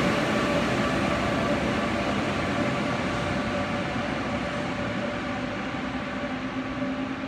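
Push-pull Tze-Chiang express train pulling away and receding. Its running noise and a steady whine fade gradually as it moves off.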